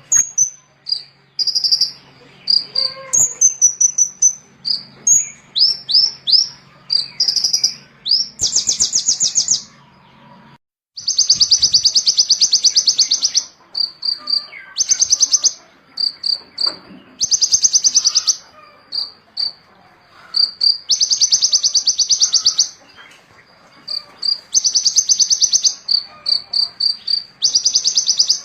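A small songbird singing high, sharp chirps mixed with fast, buzzy trills that last a second or two each, repeated over and over with short gaps, and a brief break about ten seconds in.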